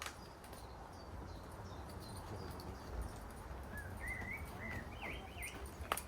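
Songbird chirping in a few short warbling phrases from about four seconds in, over a steady low rumble, with sharp knocks at the start and just before the end, the last one the loudest.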